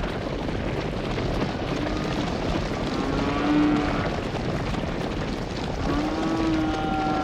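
Cattle mooing: two long, drawn-out calls, the first about two seconds in and the second near the end, over a steady rushing background noise.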